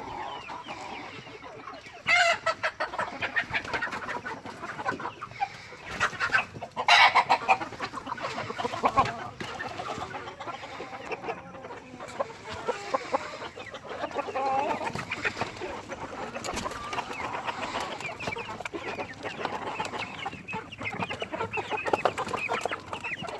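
A flock of Light Sussex chickens clucking and calling, many short calls overlapping, with louder outbursts about two and seven seconds in.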